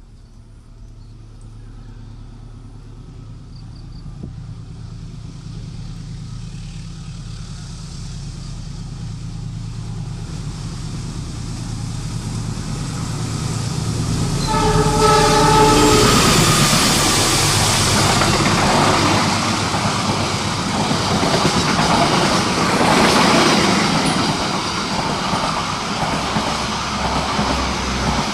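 A train approaching at speed, the diesel locomotive's rumble building steadily; about halfway through the locomotive sounds its horn in one blast of a second or two. The train then passes close by with a loud rush of wheel and rail noise and rapid clattering over the rail joints.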